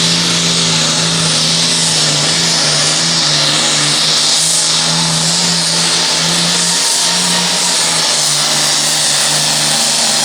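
Pulling tractor's diesel engine running flat out under full load as it drags the weight-transfer sled down the track: a loud, steady drone with a strong high hiss over it, its pitch dipping slightly about seven seconds in.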